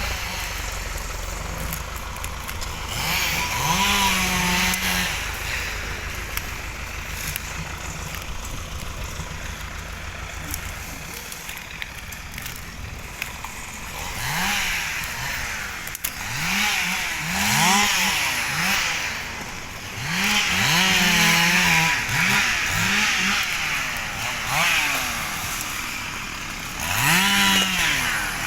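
Two-stroke chainsaw revved in short bursts, each rising and falling in pitch: once early, then many times in quick succession through the second half.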